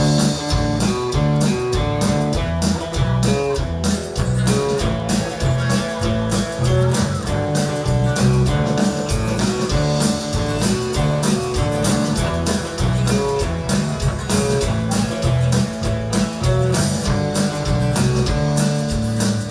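Live country band playing an instrumental intro on guitars, bass and drums with a steady beat, no singing.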